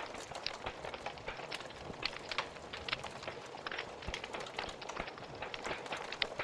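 Wood fire burning in a fireplace: dense, irregular crackling and popping over a steady hiss.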